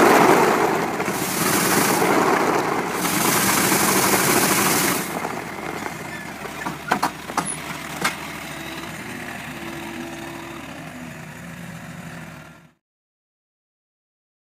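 Car engine and exhaust running, with three loud surges of noise in the first five seconds, then a steadier, quieter run with a few sharp clicks. The sound cuts off abruptly about two seconds before the end.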